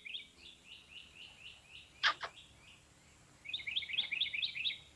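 A small bird chirping in quick, evenly repeated high notes at about four to five a second, with two sharper, louder notes about two seconds in. A second fast run of chirps comes near the end.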